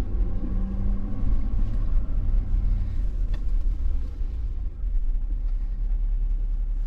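Plow truck's engine running with a steady low rumble, heard from inside the cab.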